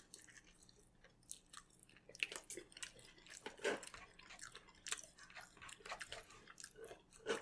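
A person chewing a mouthful of sauced fast food close to the microphone: faint, irregular wet mouth smacks and clicks.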